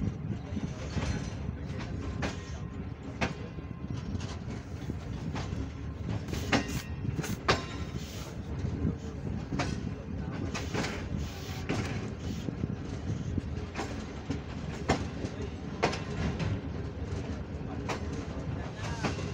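Sir Syed Express passenger coach rolling slowly along the station platform, heard from its open window: a steady rumble of the wheels with irregular sharp clicks and knocks from the wheels on the track.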